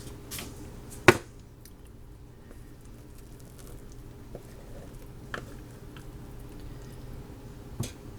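A spatula scraping hummus out of a food processor bowl, with one sharp knock about a second in and a few faint taps later, over a steady low hum.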